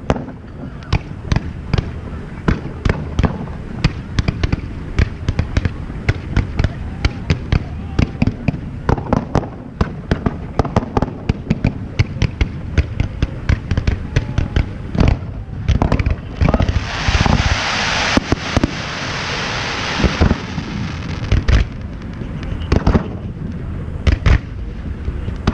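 Fireworks display going off: a rapid, uneven run of sharp bangs and pops. About sixteen seconds in there is a dense crackling hiss lasting about four seconds.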